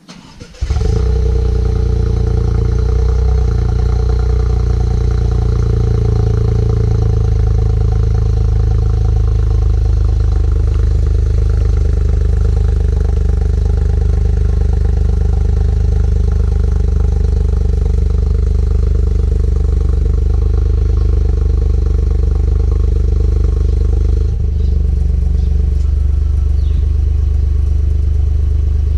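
Toyota GR Yaris three-cylinder engine breathing through an aftermarket sport exhaust. It comes in suddenly about half a second in, then idles steadily with a deep, even drone.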